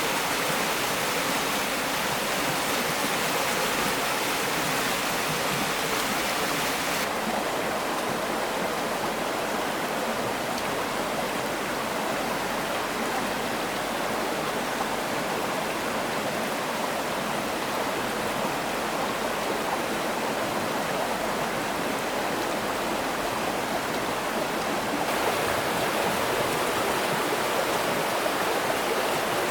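Flowing water rushing steadily, a continuous even wash; its bright hiss drops back about seven seconds in and comes back near the end.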